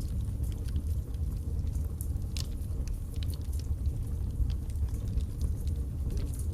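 Wood logs burning in a fireplace: a steady low rumble of flame with scattered sharp crackles and pops, one louder pop about two and a half seconds in.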